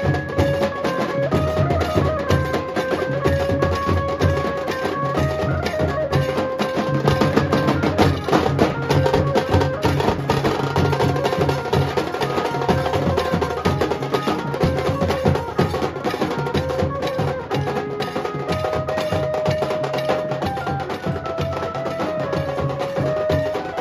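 Nasik dhol band playing: dense, rapid drum strokes under a melody of held notes that step from pitch to pitch.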